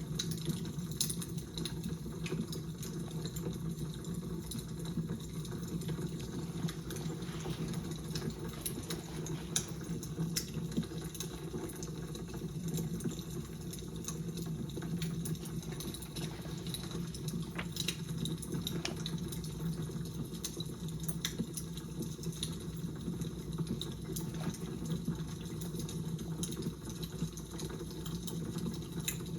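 Crackling fire: a steady low rush with many small, sharp pops and crackles scattered irregularly throughout.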